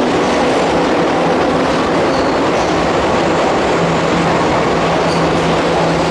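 Keihan Main Line electric train running alongside the platform with a loud, steady rail rumble. A faint steady hum joins about four seconds in.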